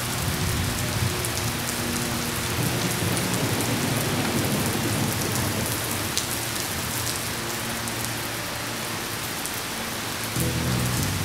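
Steady heavy rain hissing, with a low rumble of thunder through the middle. Faint music with sustained low notes sits underneath at the start and comes up again near the end.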